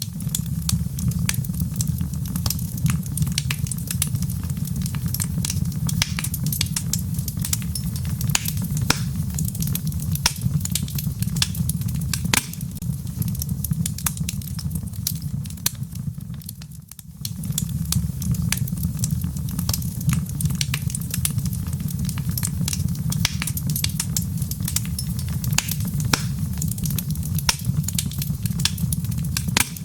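Wood fire crackling with many quick pops over a steady low rumble. The sound fades out briefly about 17 seconds in, then comes back.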